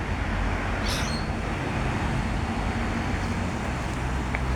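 Steady outdoor background rumble and hiss, with a brief high rustle about a second in.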